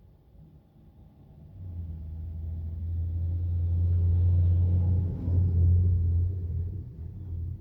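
A deep, low rumble that builds over a few seconds, holds, then fades away.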